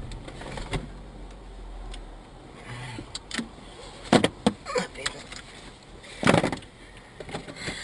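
Scattered clicks and knocks inside a car just after it has been hit from behind, with two louder short thumps about four and six seconds in. A low engine hum fades out in the first two seconds.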